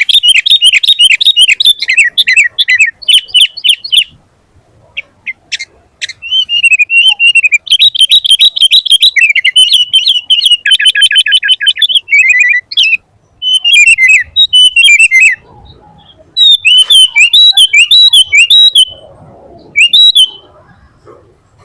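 Sooty-headed bulbul (kutilang) singing loudly in long phrases of rapid, bubbly chattering notes, with short pauses between phrases.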